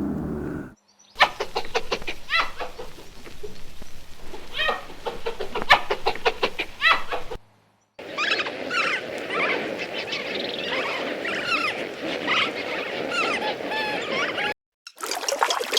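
Chickens clucking in two separate stretches of short, repeated calls with sharp clicks, each cutting off suddenly.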